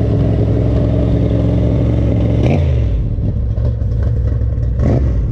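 A motor vehicle's engine running with a steady low hum; its pitch dips briefly about halfway through, and a short knock comes near the end.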